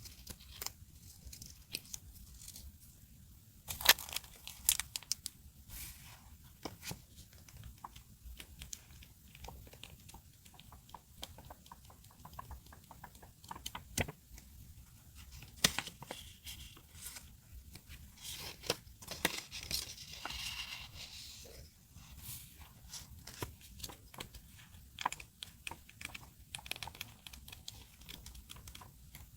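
Paper, stickers and masking tape being handled up close: tearing and crinkling with many small scattered taps and clicks, and a longer rustling tear about two-thirds of the way in.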